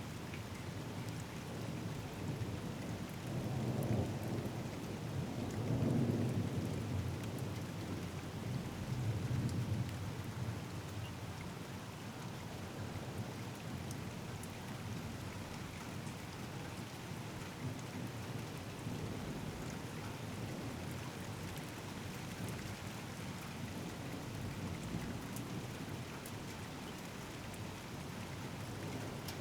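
Steady rain falling during a thunderstorm, with a low rolling thunder rumble that swells from about three seconds in, peaks around six seconds and fades by about ten seconds.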